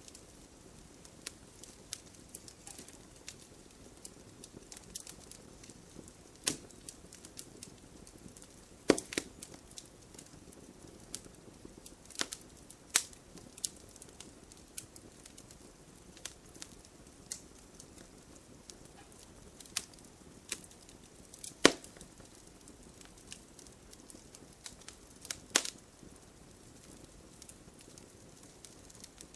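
Wood campfire crackling: irregular sharp pops and snaps, several louder ones spread through, over a faint low hiss of burning.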